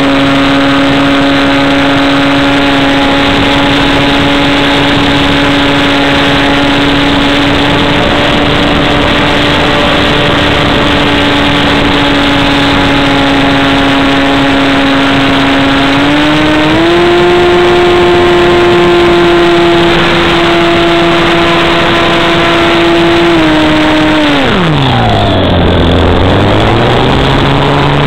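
RC model airplane's motor and propeller running at steady throttle. The pitch steps up about halfway through, then drops steeply as the throttle is pulled back near the end and climbs again as power comes back.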